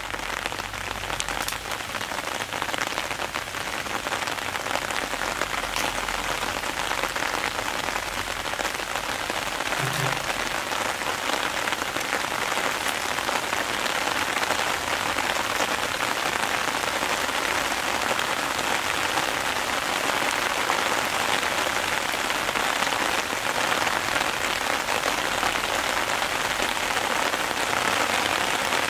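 Steady rain falling on a creek's surface and the bamboo and leaves along its banks, building a little over the first few seconds and then holding even.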